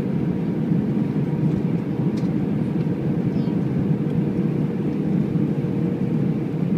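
Steady cabin noise inside an Airbus A319: a low, even drone of engines and airflow with a faint steady hum.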